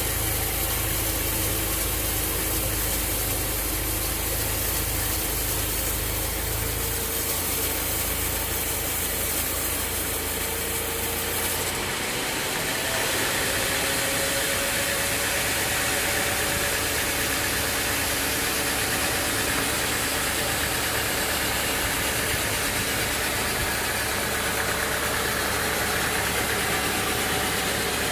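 Sawmill engine running steadily, its sound changing in character about twelve seconds in.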